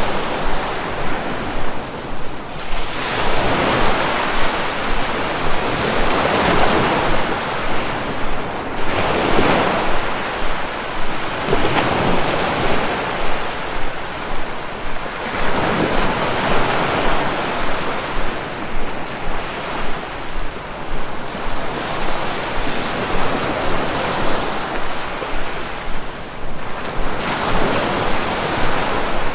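Sea waves breaking and washing on the shore, a steady rush of surf that swells and eases every few seconds.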